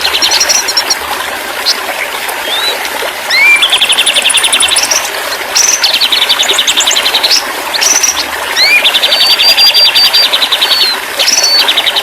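White-rumped shama (murai batu) singing. The song repeats a phrase four times: a short upward whistle that runs into a fast buzzy trill lasting one to two seconds, with higher whistled notes between the phrases, over a steady hiss.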